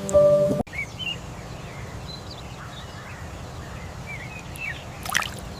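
A short musical tone cuts off abruptly, then birds chirp over a steady low background hum, with one brief sharp sound near the end.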